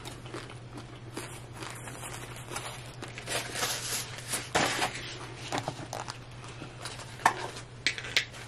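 Close-miked chewing of food, with irregular crunching and crackling mouth sounds over a steady low hum.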